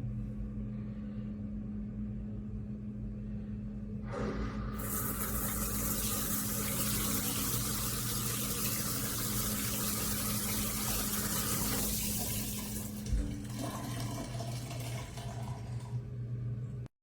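Water pouring from a stainless steel rainfall shower head, turned on about four seconds in and easing off about thirteen seconds in, over a steady low hum.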